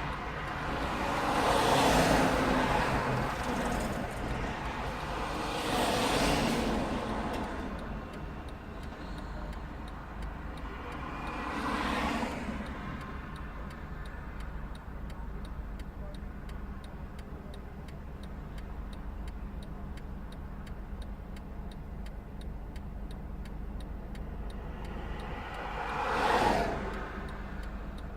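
Road traffic: several vehicles pass one after another, each swelling and fading, about four in all, with the last a little before the end. Under them runs a steady low engine hum, with faint regular ticking.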